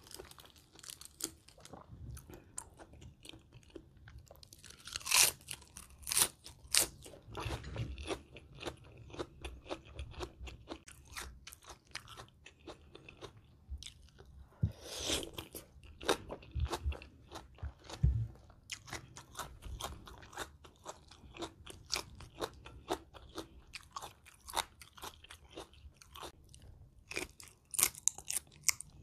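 Close-miked chewing and crunching of spicy shrimp salad with crisp lettuce: a steady run of sharp crunches, with the loudest bites about 5 to 7 seconds in and again about 15 seconds in.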